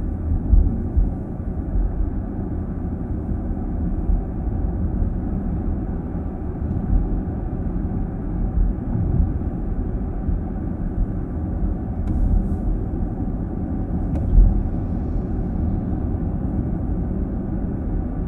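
Steady low road and tyre rumble heard inside the cabin of a car driving along a city road. A couple of faint clicks come late on.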